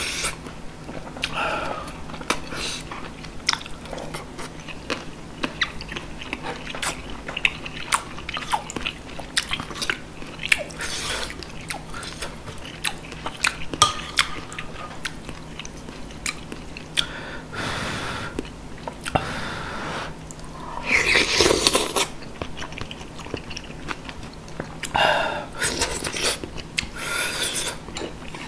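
Close-miked chewing of a mouthful of yukgaejang (spicy beef soup) and rice, with many small wet mouth clicks. A louder, noisier swell comes about three-quarters of the way through.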